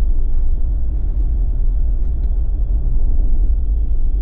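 Jeep driving on a snow-covered road: a steady low rumble of tyres and engine.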